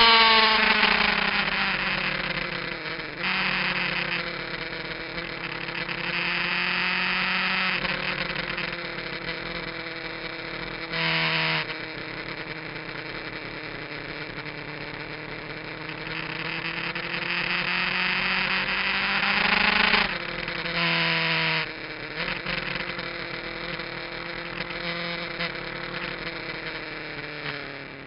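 Kawasaki GPZ900R inline-four motorcycle engine with an aftermarket exhaust, heard from on board at racing speed: its pitch drops sharply at the start, then climbs and falls repeatedly as the rider works through the gears, with wind rushing past.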